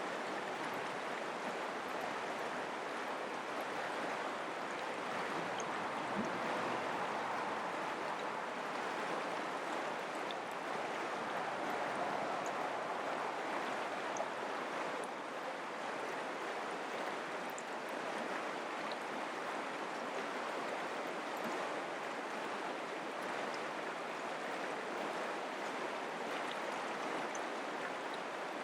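Mountain creek flowing steadily over rocks, a continuous rush of running water.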